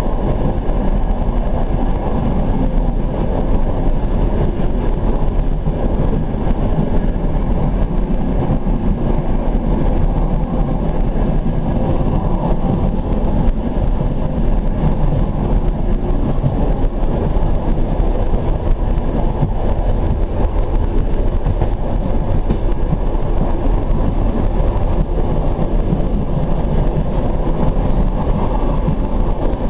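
Suburban train running steadily, heard from aboard: an even, unbroken rumble of wheels and running gear.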